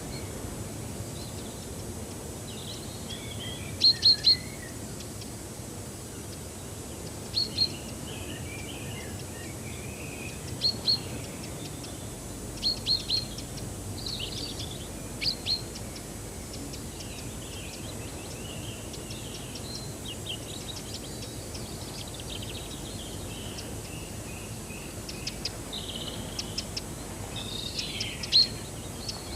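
Wild birds calling and singing. Short, sharp, high chirps come in quick groups of two to four every few seconds, with softer twittering between them, over a steady background hiss.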